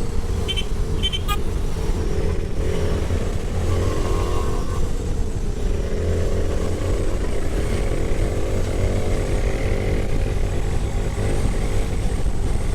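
Motorcycle engine running at a steady pitch while riding, over a heavy low rumble.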